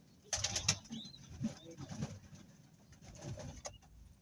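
Pigeons cooing low in a loft, a few scattered calls, with a brief rustle about half a second in and a short high chirp just after.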